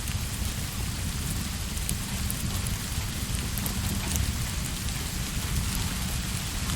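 Steady rain with a deep low rumble underneath and scattered sharp ticks of drops.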